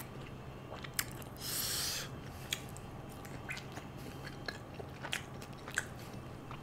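A person chewing a mouthful of fish tikka close to the microphone: quiet wet mouth clicks and smacks, with a short hiss about a second and a half in.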